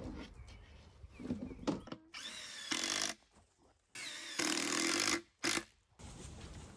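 Cordless drill driving screws into wood in three bursts: about a second long, then just over a second, then a brief final burst.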